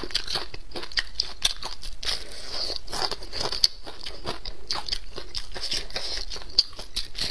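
Close-miked chewing of crispy deep-fried yellow croaker: a dense, irregular run of crunches as the fried coating is chewed.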